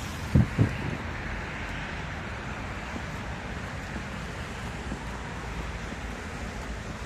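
Steady street traffic noise, with a vehicle swelling past in the first few seconds. Two short low thumps close together about half a second in are the loudest sounds.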